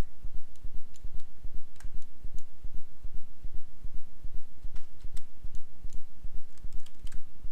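A low hum that throbs rhythmically, about three pulses a second, with scattered sharp computer mouse and keyboard clicks over it.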